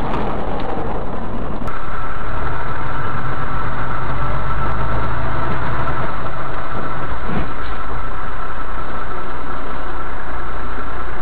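Steady drone of a vehicle's engine running, with no crash or impact. The sound steps up abruptly in loudness about two seconds in.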